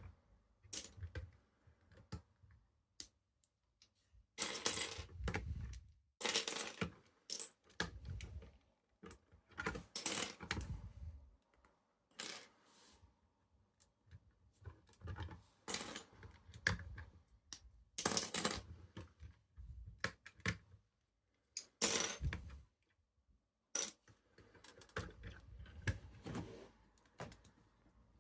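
Plastic Lego pieces clicking and rattling as a Lego model is handled, in irregular bursts of sharp clicks and short rattles.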